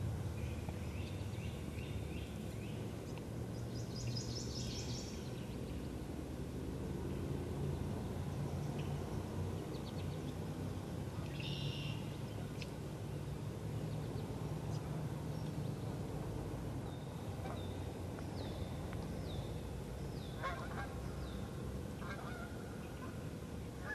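Scattered wild bird calls over a steady low background rumble. They include a rapid rattling series of high notes, a run of short falling chirps, and several lower, harsher calls near the end.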